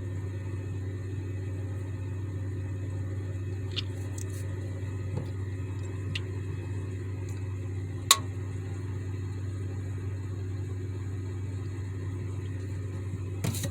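Steady low hum with a few faint ticks and one sharp click about eight seconds in.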